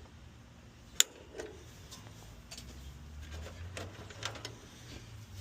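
A sharp click about a second in, then scattered lighter clicks and taps over a low steady hum.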